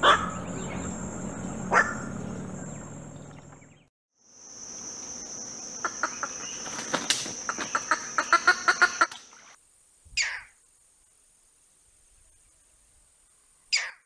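Heron calls from wetland field recordings: a Black-crowned Night-heron gives two harsh calls in the first two seconds. Then comes a rapid run of short clucking notes over a steady high whine. Near the end, a Green Heron gives two single short calls that fall in pitch, several seconds apart.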